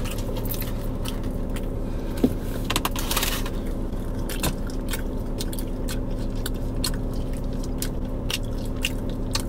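A person chewing food loudly with the mouth open: irregular smacking and crunching clicks over a steady low hum.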